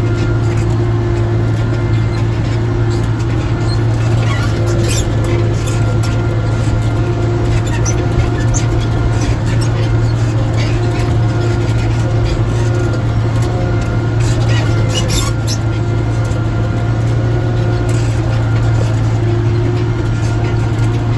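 Tractor engine running at a steady speed with a constant low drone, with a few brief rattles about four seconds in and again about fourteen seconds in.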